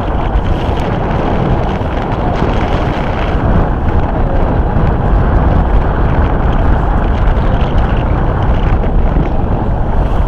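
Steady wind blowing across the microphone aboard a boat under way in a fairly constant breeze, loud and even throughout.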